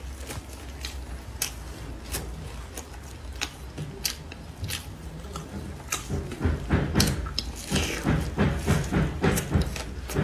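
Close-up biting and chewing of a fried shredded-potato pancake: scattered sharp clicks at first, then denser, louder rhythmic chewing from about six seconds in.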